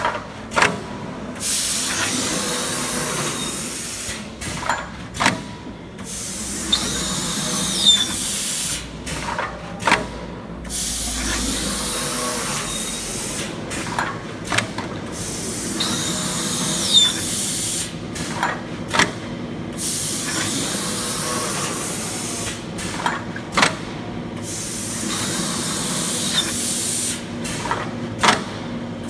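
CNC V-groover for sheet metal running its cutting passes. A steady hiss is broken about every four to five seconds by a short pause with sharp clicks and knocks as the cutting head stops and turns back. A faint whistling glide is heard twice.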